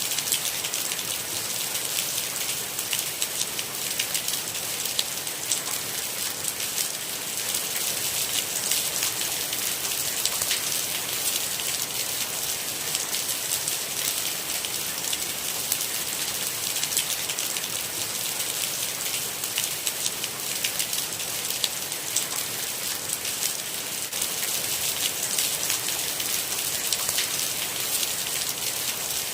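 Steady rain: a dense patter of individual drops over an even, hissing wash of falling water.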